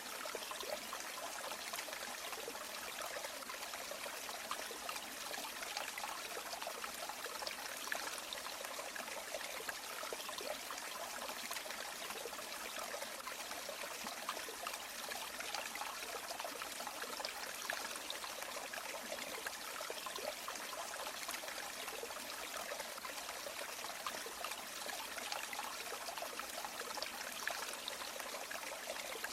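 A shallow river or stream running over stones, a steady trickling and babbling.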